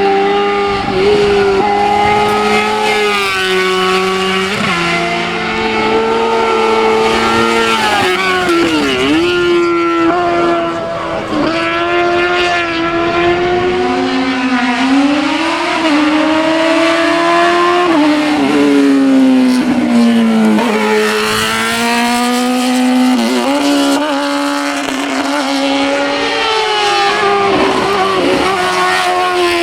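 Competition car engine driven flat out up a hillclimb, its pitch climbing under full throttle and dropping sharply at each gear change or lift, several times over, with short dips and blips where it slows for corners.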